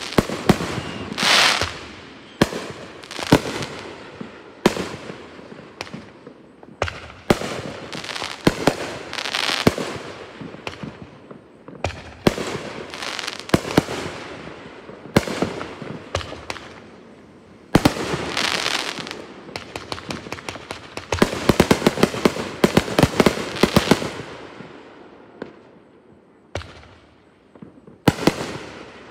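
Aerial firework shells bursting one after another, each a sharp bang trailed by crackling. A rapid run of pops and crackles comes about three-quarters of the way through, and the bursts thin out near the end.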